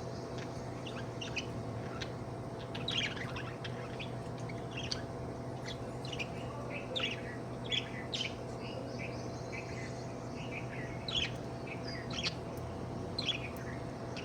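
Budgerigar chattering in a string of short, quick chirps, the contented chatter of a happy budgie, over a steady low hum.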